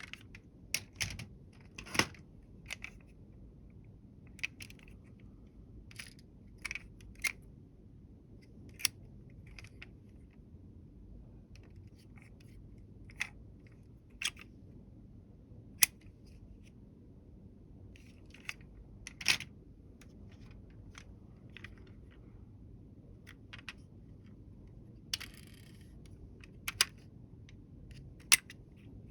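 Small hard toy vehicles being handled, giving irregular sharp clicks and taps, a couple of dozen over the stretch, with a brief rustle near the end.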